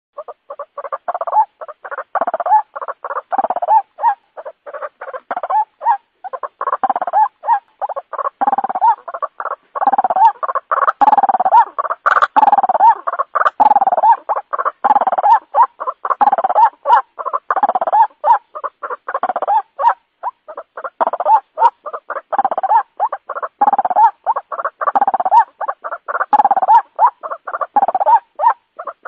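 White-breasted waterhen calling without pause: a fast run of short, harsh repeated notes, grouped in phrases about once a second.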